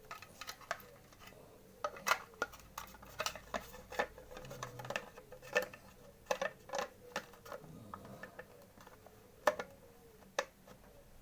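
Irregular clicks, taps and clinks of small hard parts and tools being handled, over a faint steady hum.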